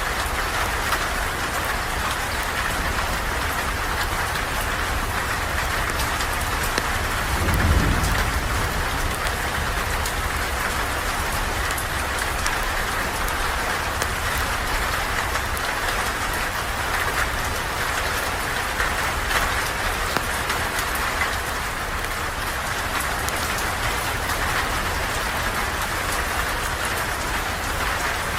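Steady rain falling and pattering, with faint scattered ticks of drops. About eight seconds in comes a brief low rumble, the loudest moment.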